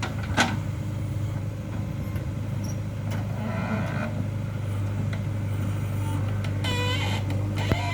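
Heavy diesel engine of earth-moving machinery running steadily, with a sharp metallic clank about half a second in.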